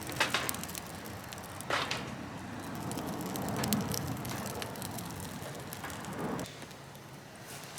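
Wood fire crackling in a fire stand, with a few sharp pops.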